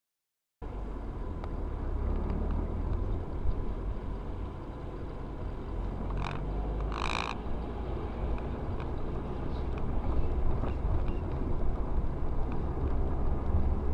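Steady low rumble of a moving vehicle's engine and road noise, starting abruptly about half a second in, with two brief higher sounds near the middle.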